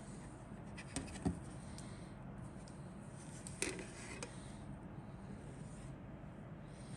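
Handling noise: a few light clicks and knocks, about a second in and again past three and a half seconds, with faint rubbing, over a steady low hum.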